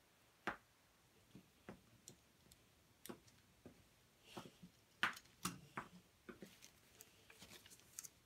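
Faint, irregular clicks and taps of small hard plastic pieces being handled, a dozen or so spread unevenly, the loudest about five seconds in.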